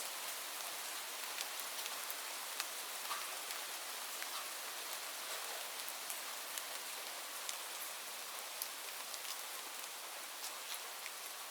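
Steady rain falling, an even hiss with scattered sharper ticks of single drops landing close by.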